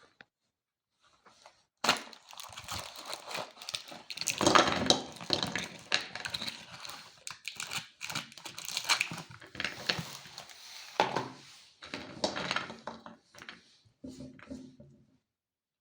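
Plastic candy packaging crinkling and tearing as it is handled and opened, in irregular rustling spurts with small clicks.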